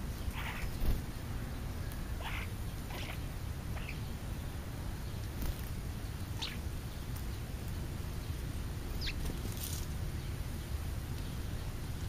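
Scattered short bird chirps and calls, about seven, one of them a quick falling note, over a steady low rumble.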